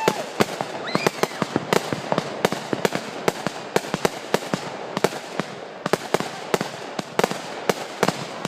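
Consumer fireworks going off in rapid succession: sharp bangs and pops, a few every second at irregular spacing, over a continuous haze of crackling.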